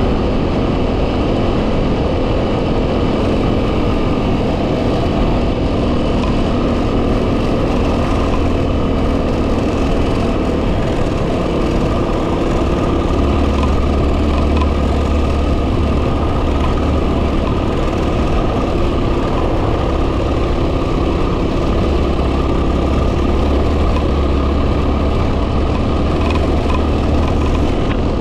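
2010 Yamaha WR250R's 250 cc single-cylinder engine running steadily on the move, under heavy wind noise rumbling on the microphone that grows stronger for a few seconds at a time.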